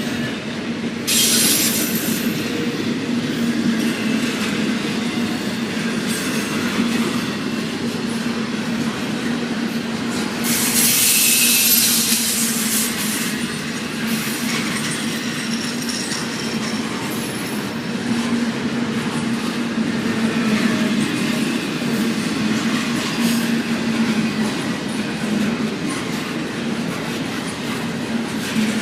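Long intermodal freight train of double-stack well cars rolling past, with a steady rumble and clatter of steel wheels on the rails. Brief high-pitched wheel squeals cut in about a second in and again for a few seconds around the middle.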